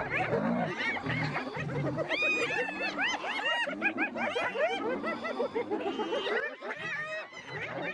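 Several spotted hyenas giggling, many short high rising-and-falling calls overlapping, over a low rhythmic growling.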